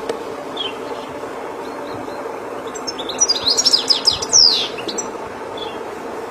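European goldfinch singing: a few faint chirps, then about three seconds in a quick burst of rapid twittering notes lasting under two seconds. It sings over a steady background noise.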